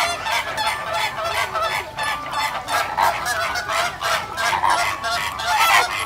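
A flock of greater flamingos honking: many goose-like calls overlapping in a continuous chorus, several a second.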